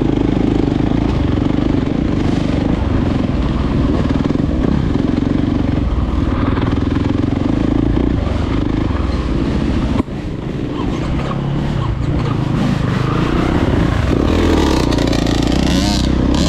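Dirt bike engine running under throttle while being ridden. About two-thirds of the way through the level drops suddenly, then builds back up.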